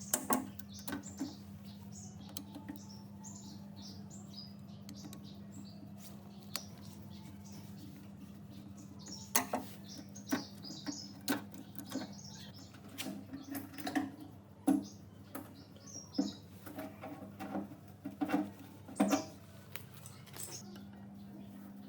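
Irregular sharp clicks and knocks, bunched in the second half, over a steady low hum, with small birds chirping in the first half.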